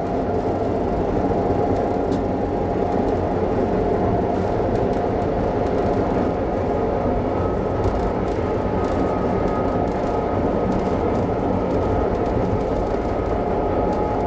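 A passenger train coach rolling steadily along the rails, heard from inside the carriage: a continuous rumble of wheels on track, with a faint high tone through the middle.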